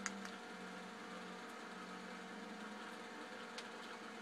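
A faint steady hum with a few held tones, with a single faint tick about three and a half seconds in.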